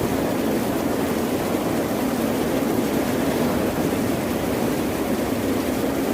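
Ocean surf: a steady, even rush of waves with no distinct individual breakers.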